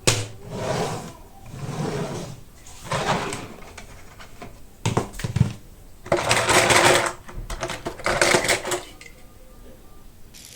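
Toy car packaging being handled and opened: several short bursts of crinkling and clattering, with clicks in between. The longest and loudest burst comes about six to seven seconds in.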